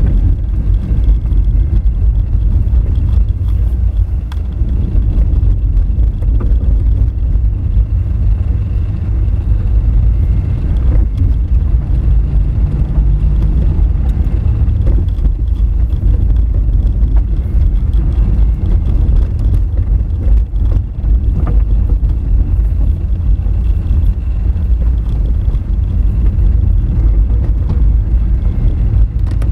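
A Honda Fit driving slowly over a rough, rocky gravel road: a steady loud low rumble of tyres, suspension and engine, with scattered sharp clicks of stones and jolts.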